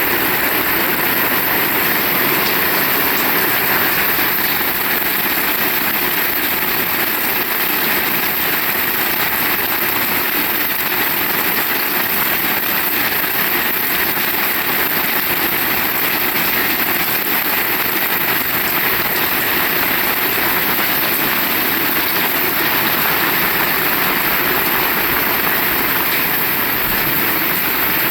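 Heavy rain falling steadily, a dense, even hiss with no break or change.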